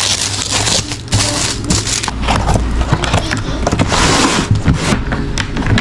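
Unboxing packaging being handled: plastic and cardboard rustling and crinkling in irregular bursts, over a low steady hum.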